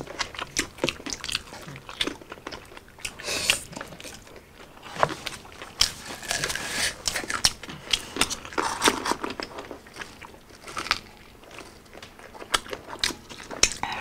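Close-miked biting and chewing of crispy fried chicken: many short, irregular crunches.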